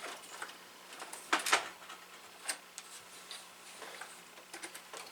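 Scattered light clicks and taps of hands and small parts being moved around inside an open rack server chassis while searching for a dropped screw, the loudest pair about one and a half seconds in, over a faint steady hum.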